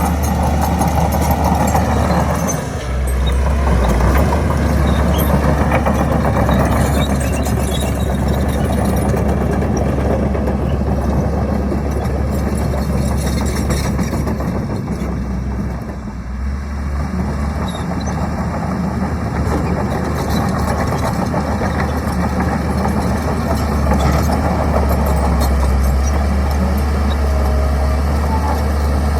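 Heavy construction machine's diesel engine running steadily, with brief dips in loudness about three seconds in and again about sixteen seconds in.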